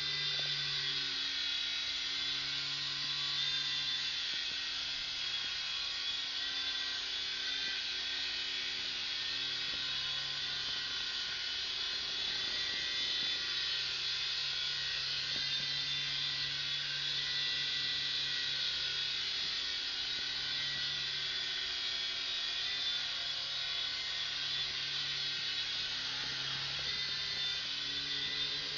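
Small electric motors and rotor blades of a Syma S39 toy remote-control helicopter whirring steadily in flight, a high-pitched buzzing whine.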